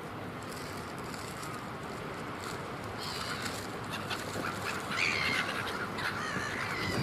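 A flock of birds calling over a steady rushing background noise. The calls grow busier about halfway through, many overlapping at once, and are loudest near the end.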